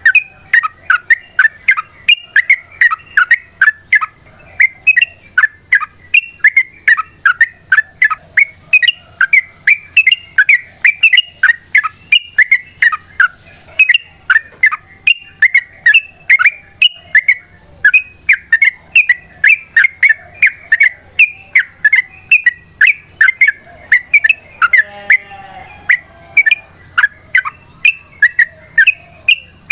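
Yellow-vented bulbul (trucukan) singing a long, unbroken run of rapid, sharp chirping notes, about three a second: the excited fighting song ('ropel panjang tarung') used to provoke other bulbuls. A steady high whine runs underneath, and a harsher rasping note breaks in briefly near the end.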